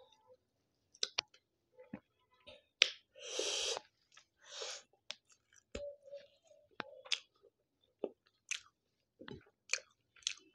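Close-miked chewing of a mouthful of rice and curry eaten by hand: irregular wet mouth clicks and smacks, with a couple of longer squelchy chews a few seconds in.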